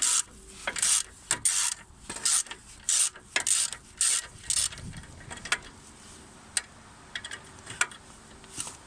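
Hand ratchet wrench clicking in short bursts, about two strokes a second, as a stabilizer-bar drop-link bolt is being undone; after about four and a half seconds the strokes give way to a few scattered clicks.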